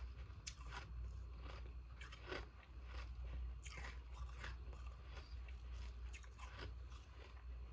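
Someone biting and chewing pieces of freezer ice close to the microphone: irregular crisp crunches, sometimes several a second, over a steady low hum.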